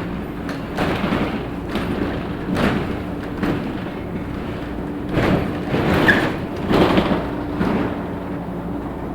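Interior of a LiAZ 6213 articulated city bus on the move: the engine hums steadily while the body gives a series of irregular thuds and rattles, about eight jolts, the heaviest a little past the middle, as the bus rides over uneven road.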